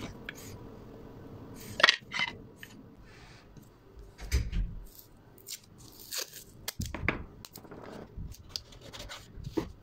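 Wood and hand tools being handled and worked: scattered knocks, taps and scrapes, the loudest a sharp knock about two seconds in, with a duller thump a little later.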